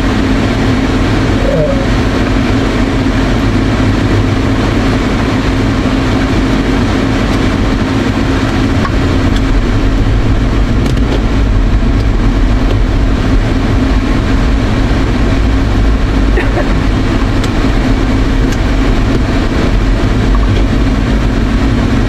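Inside a car cabin: the air-conditioning blower running on high over the engine idling, a steady rushing noise with a constant low hum.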